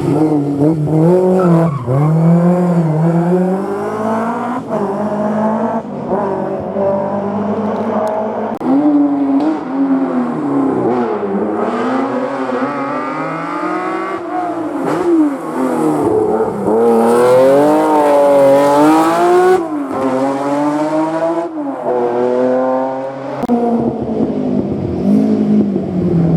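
Historic rally car engine being driven hard through a hairpin: the revs rise and fall again and again with throttle blips and gear changes, and the engine is loudest and highest-revving about two-thirds of the way through.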